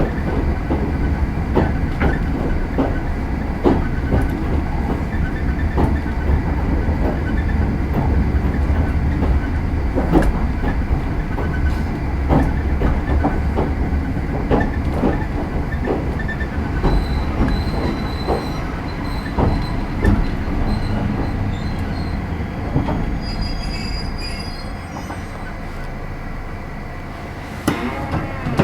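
Running sound inside an Oigawa Railway 16000 series electric train (ex-Kintetsu 16000), slowing into its terminal stop: a low rumble with irregular rail-joint clicks. Thin high wheel and brake squeal comes in from about 17 seconds in. The rumble then fades as the train nears a stop, with a single knock near the end.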